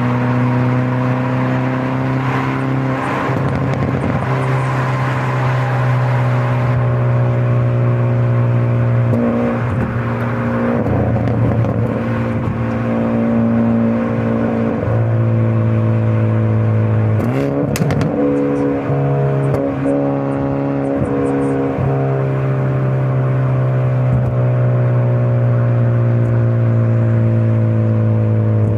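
Hyundai Avante N (Elantra N)'s 2.0-litre turbocharged four-cylinder engine and exhaust droning at a steady pitch while driving in N mode, the pitch stepping up or down several times as engine speed changes. A couple of brief sharp clicks come about two-thirds of the way through.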